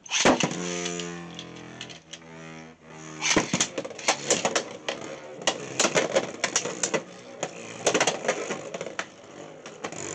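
Beyblade X tops launched into a plastic stadium: a steady whirring tone for the first three seconds, then many sharp plastic clacks and rattles as the spinning tops collide and scrape the stadium.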